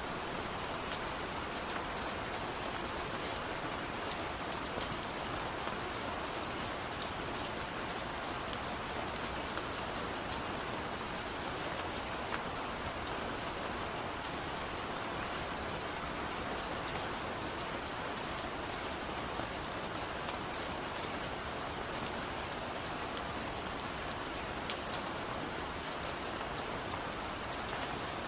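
Steady rain falling, an even hiss with scattered sharp ticks of single drops landing.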